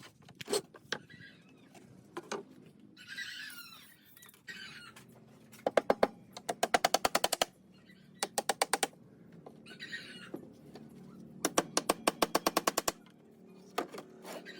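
Rapid runs of sharp mechanical knocks, about ten a second, in three bursts of roughly one to one and a half seconds each, with short hissing rushes between them.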